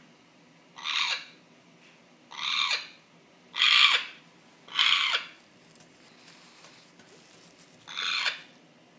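African grey parrot giving a strange, repeated hoarse call, five times, each about half a second long and ending in a short falling note, with a longer pause before the last one.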